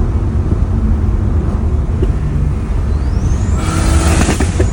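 Turbocharged BMW M54B22 inline-six running with a steady low rumble; about three seconds in a high whistle rises and holds as the turbo spools, joined by a rush of hiss near the end.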